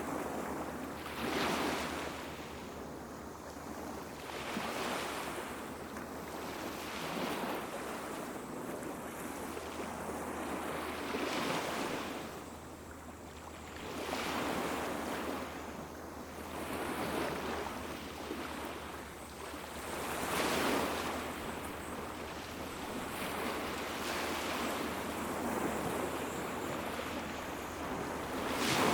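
Small sea waves washing onto a beach, one soft breaking rush every two to three seconds that swells and fades over a steady background of surf.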